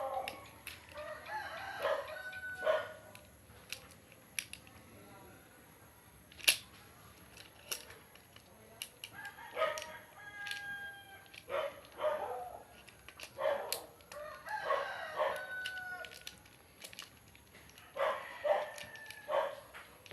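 Roosters crowing several times, each crow a drawn-out pitched call, with sharp clicks and knocks scattered between them.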